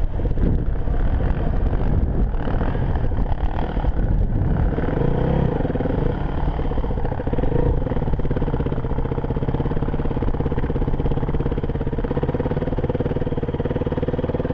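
Enduro motorcycle engine running while riding. The engine note shifts up and down for the first several seconds, then holds steady from about eight seconds in.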